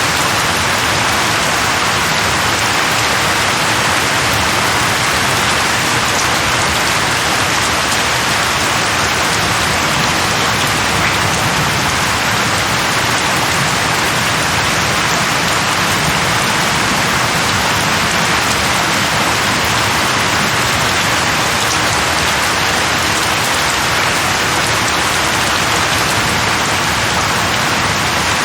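Steady rain falling and pattering on a surface, an even, unbroken hiss of drops.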